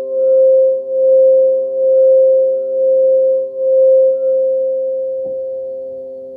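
Singing bowl ringing with several steady tones, swelling and fading about once a second; about four seconds in the swells stop and the bowl rings down slowly. A soft knock sounds about five seconds in.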